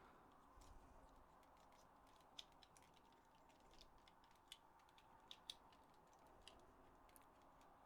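Near silence, broken by a handful of faint, sharp clicks and taps, spaced irregularly: small plastic parts of a PS4 controller being handled and fitted together.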